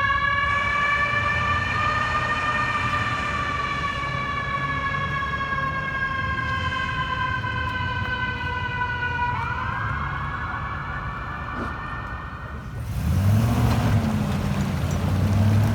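Fire truck's Federal Q mechanical siren winding down slowly in pitch, then spun back up to a rising wail about two-thirds through, before cutting off abruptly. A lower, wavering sound with broad noise follows for the last few seconds.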